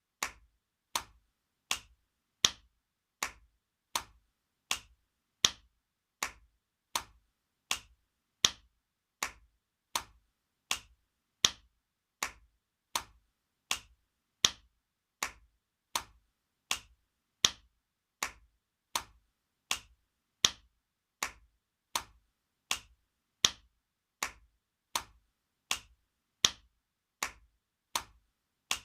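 Spanking sound effect: sharp hand slaps on skin repeated evenly, about four every three seconds, with every fourth slap louder than the others.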